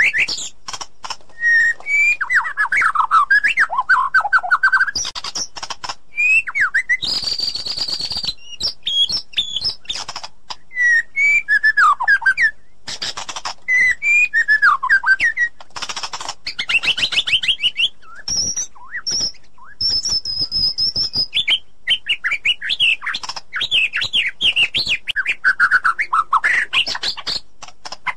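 White-rumped shama singing a long, varied song: loud whistled phrases, rapid trills and sliding notes, broken by short pauses and a few harsh, noisy notes.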